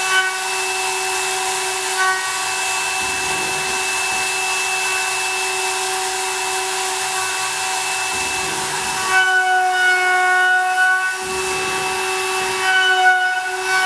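CNC milling machine cutting aluminium: a steady spindle whine of several pitches over a hiss of cutting. About nine seconds in the hiss drops away and the whine grows a little louder, its pitches shifting.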